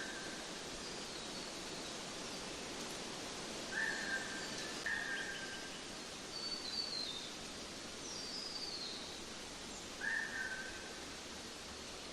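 Wild birds calling over a steady hiss of outdoor background noise: short whistled notes about four, five and ten seconds in, with higher, falling runs of notes between them.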